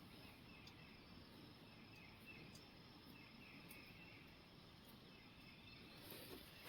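Near silence: faint outdoor ambience with faint insect chirping.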